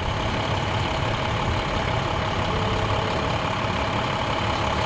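Heavy engine running steadily at idle, with a steady whine over it.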